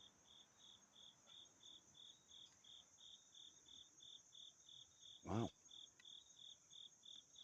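Faint insects chirping in an even rhythm, about three chirps a second, over a steady high-pitched insect hiss. A brief voice-like sound comes a little past the middle.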